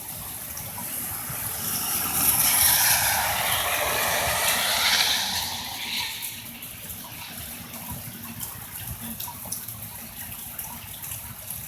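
Steady hiss of heavy rain and strong wind, with a car passing on the wet street: its tyre hiss swells and fades between about two and six seconds in.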